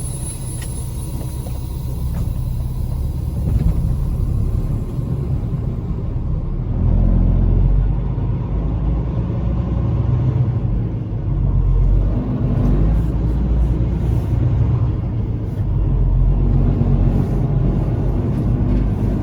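Semi truck's diesel engine running with a low rumble as the truck pulls away, growing louder about seven seconds in and swelling a few more times after that.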